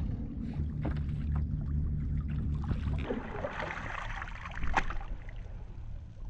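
Sounds of a kayak on the water: a low pulsing rumble for the first three seconds, then splashing hiss with scattered knocks and one sharp knock near the end.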